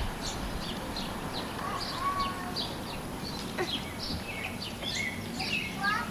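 Songbirds chirping: a steady run of short, high chirps, with a few lower whistled notes mixed in.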